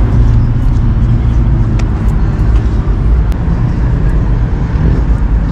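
Car engine running steadily with a deep exhaust rumble.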